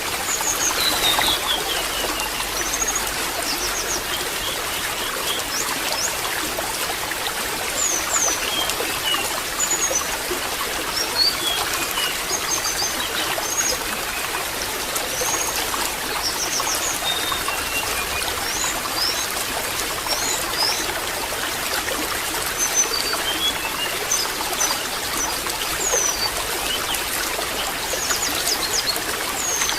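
Water trickling steadily, with small birds giving many short, high chirps and trills throughout.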